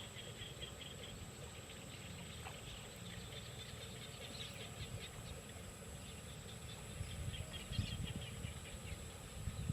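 Small birds chirping faintly in quick high-pitched series, over a steady faint high whine. Low bumps and rumble come in from about seven seconds in.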